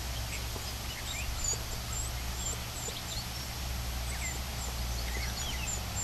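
Wild birds chirping and calling in the background: many short, high chirps scattered through the whole stretch, over a steady low hum.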